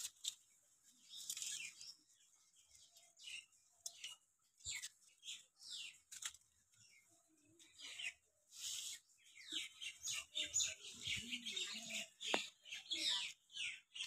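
Birds chirping: many short, high, falling chirps that grow busier in the second half, with a few sharp clicks, one loud near the end.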